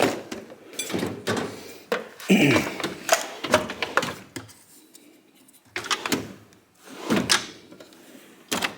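Rummaging through tools and parts: irregular knocks, clatters and scrapes of objects being moved and set down, in several bursts with short pauses, like a drawer or cabinet being gone through.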